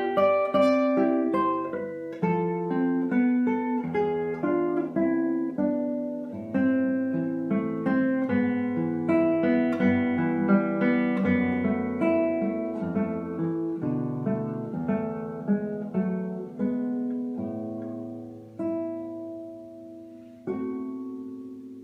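Solo acoustic guitar playing a fingerpicked piece, melody notes over a bass line, each note plucked and left to ring. The notes thin out near the end, and a final chord about 20 seconds in rings away.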